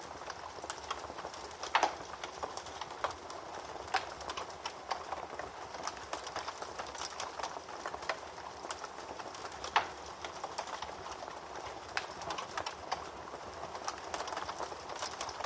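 Wood fire burning in a fireplace: a steady hiss of flames with constant irregular crackling and snapping, with two sharper pops about two seconds in and near ten seconds.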